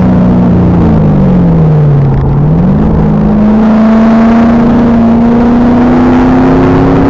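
Stock LS1 V8 of a Pontiac Trans Am Firehawk running hard on a race track. The engine note sags as the car slows, rises sharply about two and a half seconds in, then climbs steadily as it accelerates under load. The recording is loud and distorted.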